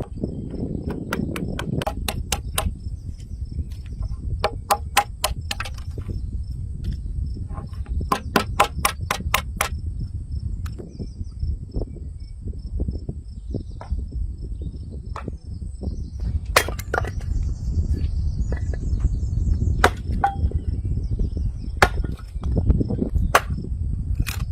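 Sharp taps in quick runs of several strokes, with scattered single knocks between, over a low rumble and the steady chirping of crickets.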